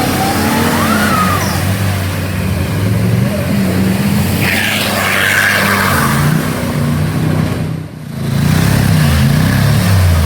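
Off-road 4x4 engine running and revving, its pitch rising and falling, with a brief rushing noise about halfway through and a short dip in sound about eight seconds in.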